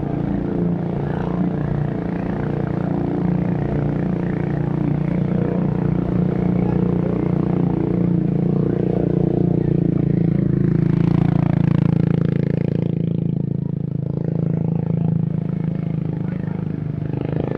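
A motor vehicle engine drones steadily close by, and its pitch drops about eleven seconds in.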